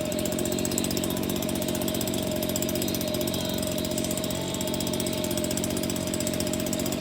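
A steady, rapid mechanical rattle over a constant hum, like a small motor running: something vibrating hard.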